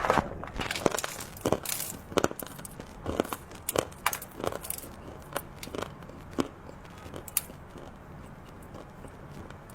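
Close-up crunching and chewing of hard, crunchy chocolate treats, a run of sharp, crisp crunches that come thick and fast at first and thin out to occasional ones in the second half.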